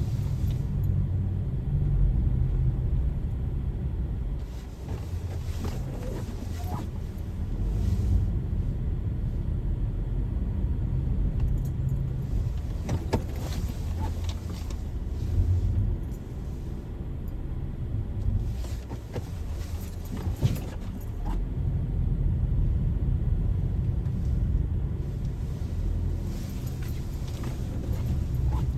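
Car driving, heard from inside: a steady low road and engine rumble with a few brief light rattles and clicks.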